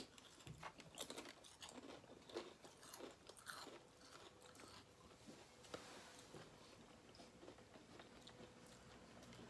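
Faint crunching of crisps being chewed: irregular small crackles, busiest in the first four seconds.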